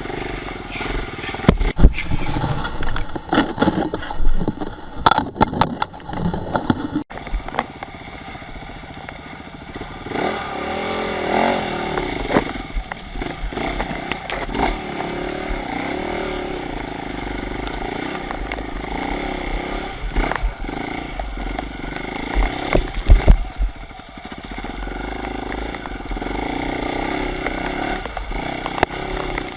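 Dirt bike engine running and revving on a trail. Many sharp knocks and clatters come in the first several seconds, then after a sudden change about seven seconds in the engine runs more steadily, rising and falling in pitch.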